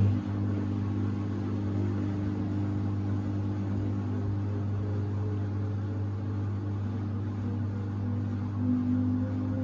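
Samsung WD70T4047CE washer-dryer on its final spin, the drum turning at speed with a steady low motor hum, swelling slightly near the end.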